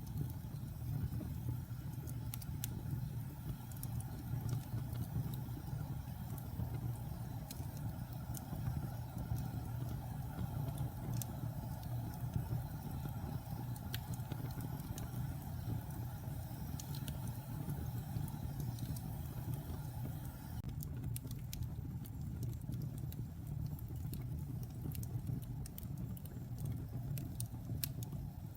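Wood fire burning in a fireplace: a steady low rumble with scattered sharp crackles and pops, which come more often near the end.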